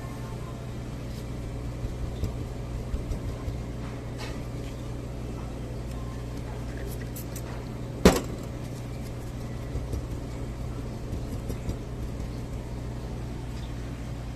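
Steady low hum with a few light clicks and one sharp knock about eight seconds in.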